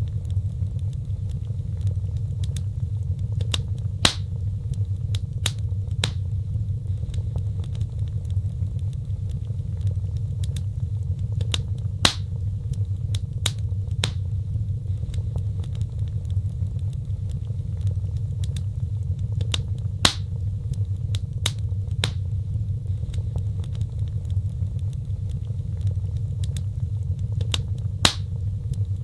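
Wood fire burning, with frequent sharp crackles and pops over a steady low rumble; the loudest pops come about every eight seconds.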